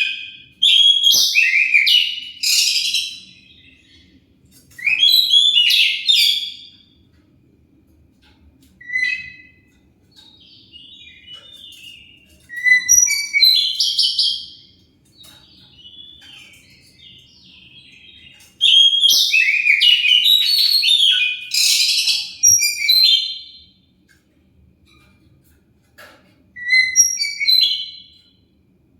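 Oriental magpie-robin (kacer) singing in loud bursts of quick, varied, high whistled and chattering phrases, with short pauses between them. This is the kind of lure song played to provoke a kept kacer into answering.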